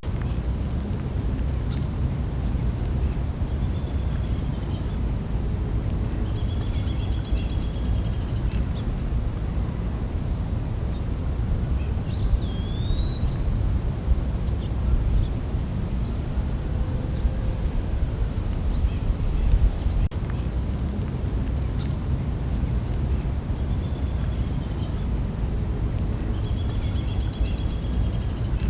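Night insect chorus: a steady high buzz with crickets chirping in even pulses about three a second, a few longer high calls twice in a row that come round again near the end, and a short rising-and-falling call about twelve seconds in, all over a steady low rumble.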